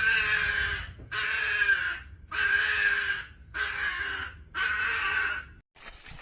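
An animal giving five harsh calls in a row, each about a second long, with short pauses between.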